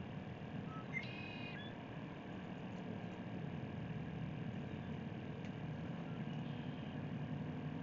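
Steady low background rumble, with one short, high chirp about a second in.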